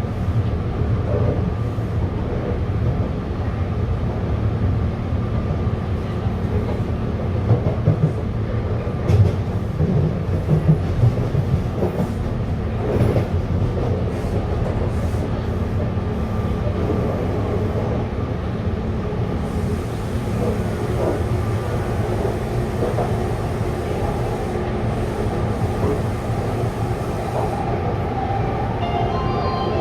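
Taipei Metro train running between stations: a steady rumble of wheels on rail under a faint constant hum, with a run of sharp clacks roughly a third of the way in.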